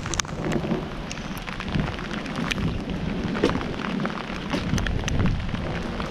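Heavy rain falling in a storm, with many single drops striking close to the microphone as sharp ticks over a steady low rumbling noise.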